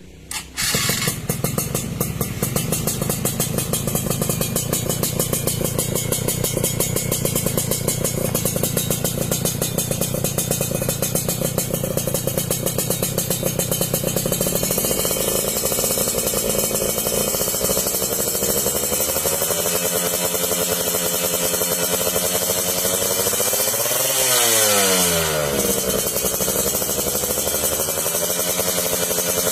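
Yamaha F1ZR 110cc two-stroke single with a YKJ racing exhaust, starting about half a second in and then idling with a crisp, pulsing exhaust note. It is blipped briefly about 24 seconds in, the pitch rising and falling back to idle.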